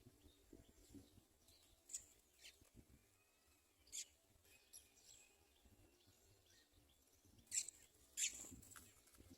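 House sparrow giving short, high, scattered chirps, with the two loudest close together near the end.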